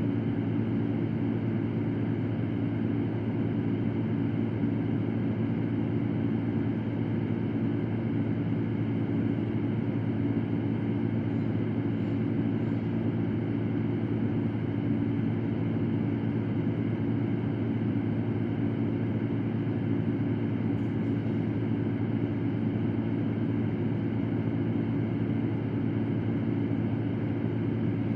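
Electric fan running steadily: an even rush of air over a low hum, with no change in speed.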